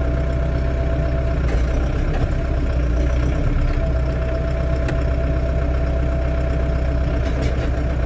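Tractor engine running steadily with a thin steady whine over it. The whine drops out about a second and a half in and comes back about four seconds in.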